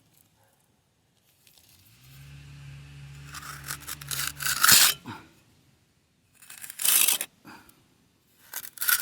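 Wet concrete mix being scraped and packed into a form with a hand tool: three rough rasping strokes, the first about four and a half seconds in. A low steady hum runs underneath from about two seconds in and stops with the first stroke.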